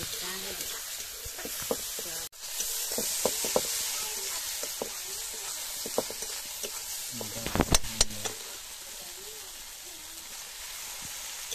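Spice paste sizzling in an iron kadai while a metal spatula stirs and scrapes it, with scattered knocks of the spatula on the pan. About two-thirds of the way through comes a quick cluster of louder knocks.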